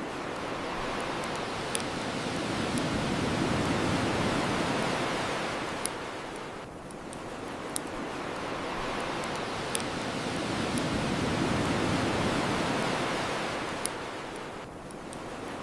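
Ocean waves washing onto the shore, the surf rising and falling twice, with a wood fire's crackle giving about five sharp pops.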